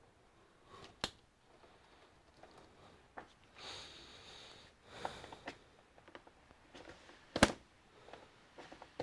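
Scattered clicks and knocks of hands and tools working on the plastic housing of an HP all-in-one desktop, with a sharp knock about seven seconds in as the loudest sound. A sniff comes around four seconds in.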